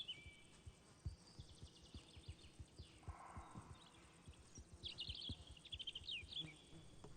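Faint, irregular soft hoof thuds of red deer moving about, with scattered bird chirps.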